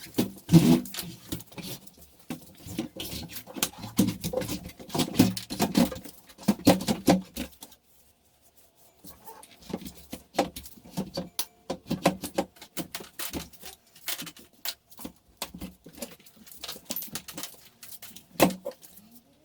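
Washing machine being shoved and wiggled into its slot: a run of irregular knocks, bumps and scrapes from its cabinet and rubber feet, which grip the floor and keep it from sliding easily, with one louder knock near the end.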